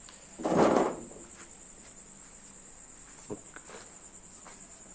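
Steady high-pitched chirring of crickets in the background, with a short loud burst of noise about half a second in and a faint tap a little after three seconds.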